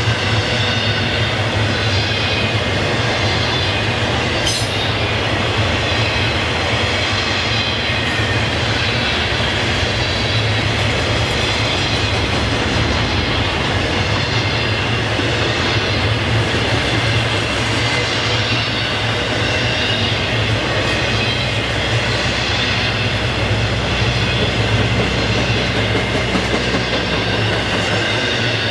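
Cars of a long intermodal freight train rolling past at steady speed: an even rumble of wheels on rail, with a faint high steady wheel squeal over it.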